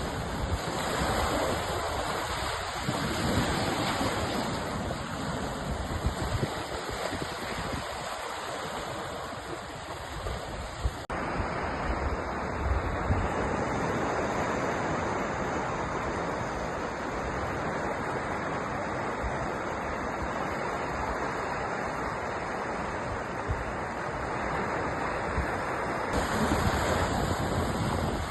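Sea waves washing onto a shore, a continuous rolling surf with swells that rise and fall. About eleven seconds in the sound drops briefly and its tone changes abruptly, as at a splice in the recording.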